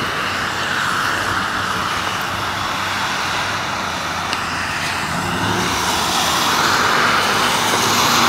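Road traffic on a wet street: a steady hiss of tyres on wet pavement with engine hum, swelling louder over the last few seconds as a vehicle comes closer.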